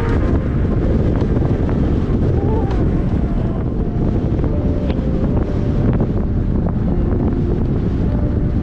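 Steady wind buffeting the microphone of a camera carried on a moving bicycle, a dense low rumble at a constant level.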